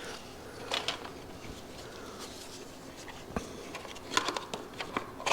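Scattered light clicks and taps of small engine parts being handled and fitted, a few quick ones together about four seconds in, as the air intake screen and air filter go back onto a go-kart's small engine.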